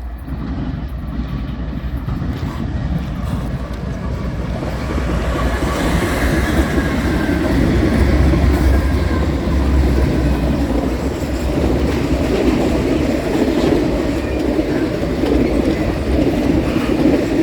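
A train passing at close range: a steady rumble of wheels on rail with clickety-clack over the joints, growing louder over the first several seconds, with a faint thin squeal from the wheels.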